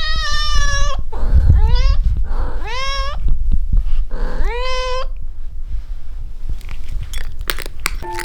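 A cat meowing four times in the first five seconds, each meow rising in pitch and then holding, over a steady low rumble. A few light clicks follow near the end.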